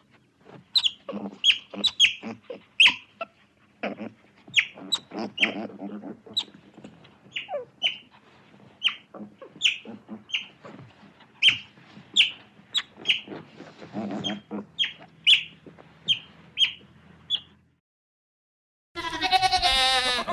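Animal calls: a long run of short, high chirping calls, one or two a second, then a brief silence and a longer, fuller call with many overtones near the end.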